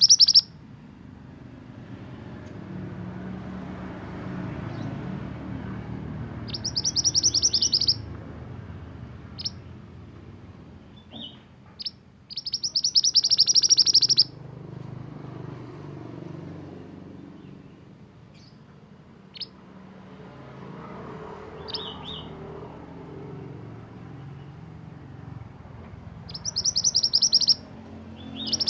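A mantenan songbird singing: four loud, fast, high trilled phrases of one to two seconds each, with scattered single short high notes between them, over a faint low background rumble.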